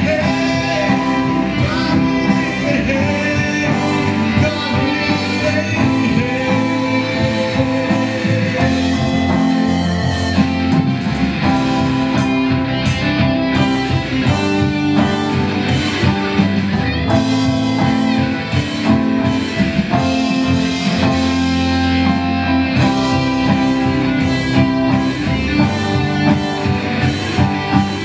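Band music led by guitar, with a steady beat.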